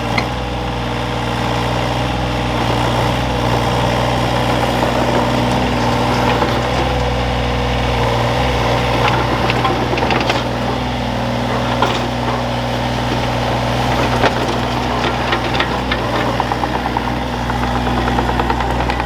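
Excavator's diesel engine running steadily, with scattered knocks and clanks from the machine working in the middle stretch.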